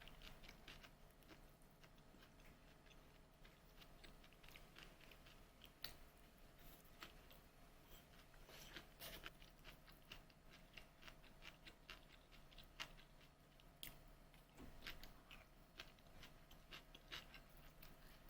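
Faint chewing, with scattered small crunches and clicks.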